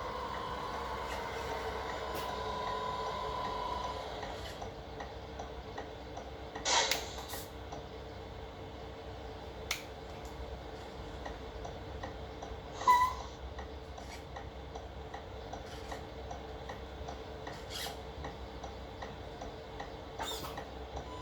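Radio-controlled model tipper truck giving a steady electrical hum, with a few sharp clicks and knocks scattered through it; the loudest knock comes about thirteen seconds in.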